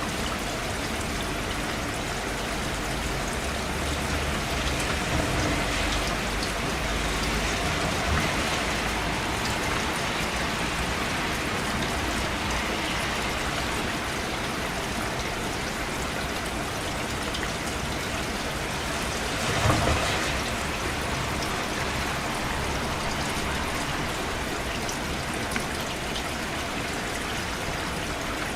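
Steady rain falling, an even hiss of drops, with one brief louder surge about two-thirds of the way through.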